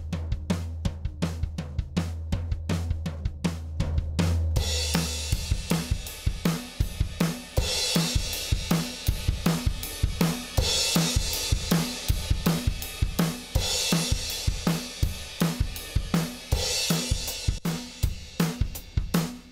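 Drum kit recording run through a Lindell Audio 17X FET (1176-style) compressor: kick, snare and hi-hat play a steady beat of about three hits a second. A low sustained bass note sits under the first few seconds. Cymbals come in about four and a half seconds in, with a crash swelling every three seconds or so.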